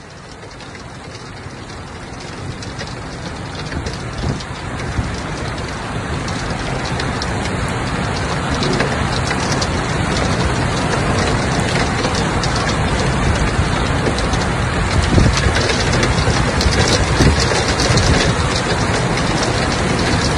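Heavy downpour with muddy floodwater rushing along a roadside channel: a steady wash of noise that grows louder over the first half and then holds.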